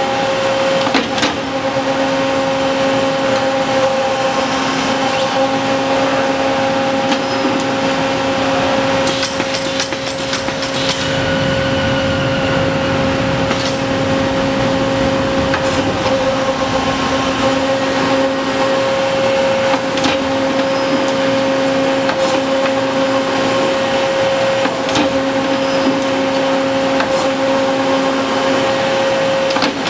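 CNC tube bender running under power with a steady, even hum. A few sharp clicks come through, and about a third of the way in there is a quick cluster of clicks with a brief rush of noise.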